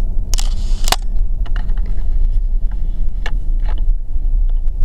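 Steady low road and engine rumble inside the cab of a lifted 2020 Ram pickup on the move. There is a short hissing rustle about half a second in and a few light clicks later on.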